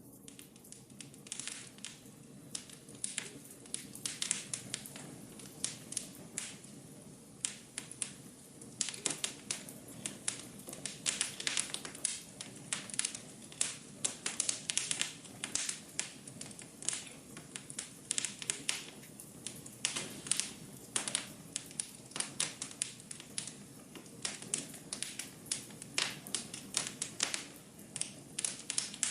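Wood fire crackling in a fireplace: irregular sharp pops and snaps over a low steady hiss of burning, busiest from about nine to sixteen seconds in.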